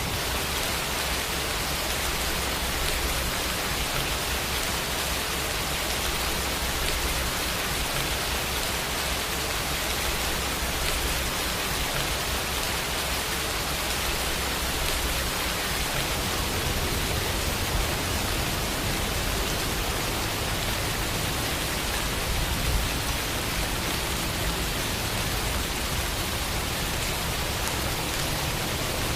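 Steady rain falling, an even hiss of many drops with fine pattering, the low rumble strengthening a little after about 16 seconds.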